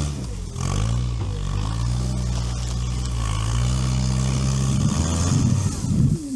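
Veter all-terrain vehicle's engine running at steady revs, dipping in pitch about half a second in and recovering. It turns rougher and louder near the end, then the revs fall away quickly.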